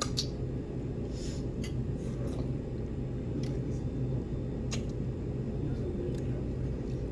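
Steady low room hum, like a ventilation fan running, with a few faint short clicks, such as light taps at the table.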